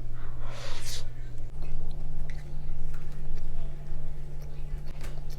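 A person chewing a mouthful of burger, with small wet mouth clicks, over a steady low hum. There is a short breathy hiss about half a second in.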